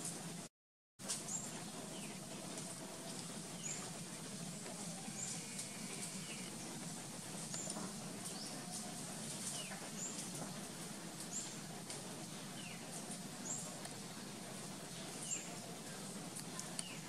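Outdoor ambience with a bird repeating a short, high call that slides downward, about once every second or so, over a low steady hum. The sound cuts out completely for about half a second near the start.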